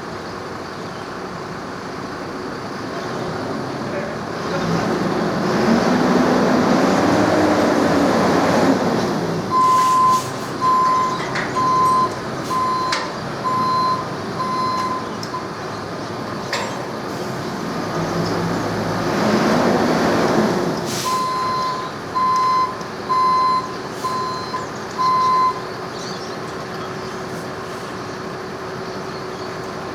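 A diesel vehicle's engine revs up twice. Each time it is followed by its reversing alarm: a run of steady, even beeps a little under one a second, about seven the first time and five the second. A few sharp knocks are heard in between.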